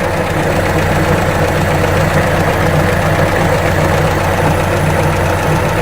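Universal Atomic 4 four-cylinder gasoline inboard engine idling steadily, running smoothly.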